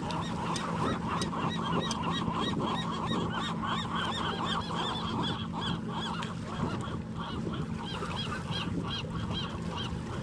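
A flock of birds calling: a steady chatter of short, overlapping calls, several a second, over a faint low hum.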